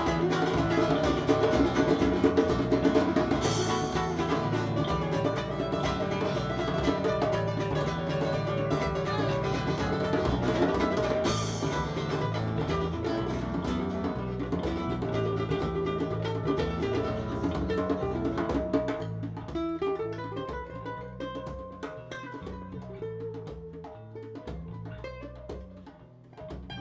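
Instrumental passage by a small acoustic band: strummed acoustic guitar over bass and percussion, with two brighter cymbal-like splashes in the first half. The playing thins out and gets quieter in the last third.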